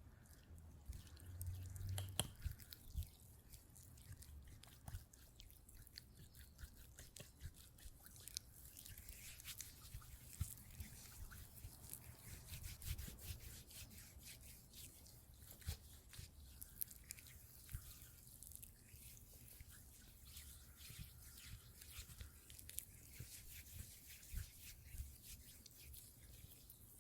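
Faint ASMR trigger sounds made close to the microphone: a dense run of soft, quick clicks and crackles, over a low steady hum.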